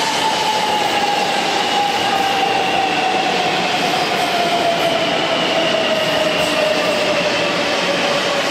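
500 series shinkansen moving slowly past a platform: a steady rumble of wheels and running gear with a whine from the traction motors that slowly falls in pitch as the train slows.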